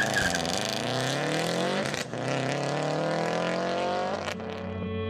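A car engine revving hard and rising in pitch, breaking off about two seconds in and rising again. Near the end it gives way to electric guitar music.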